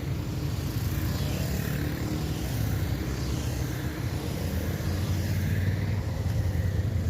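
Motorcycle engine running steadily while riding, with wind rush over the microphone; the sound cuts off abruptly at the very end.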